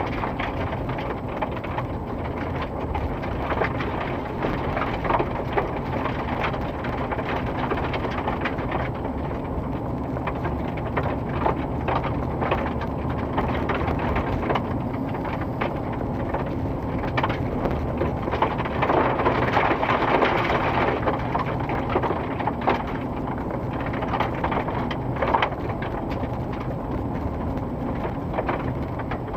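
Road-repair machinery running: a steady engine rumble under constant crackling and scraping noise.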